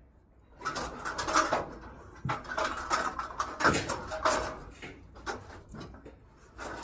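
Scrap metal being handled: a busy run of clanks, knocks and scrapes with short squeaks that thins out after about five seconds.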